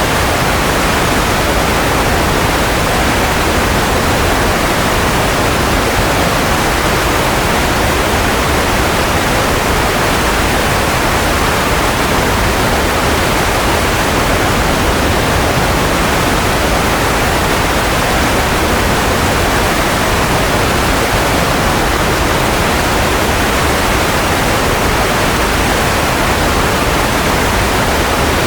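Steady synthetic noise played as a baby-sleep aid, an even hiss weighted toward the lower and middle range, softer in the highs, with no change in level.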